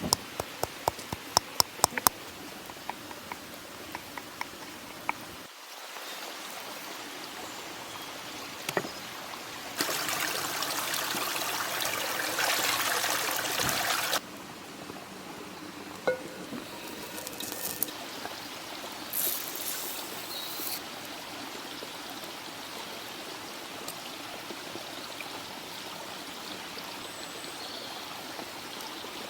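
Liquid pouring and trickling over a steady watery background. A quick run of sharp clicks comes at the start, and a louder four-second pour comes about ten seconds in.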